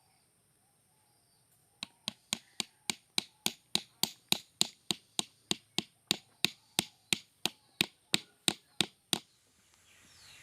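A steady run of sharp, light taps on wood, about four a second, starting about two seconds in and stopping shortly before the end.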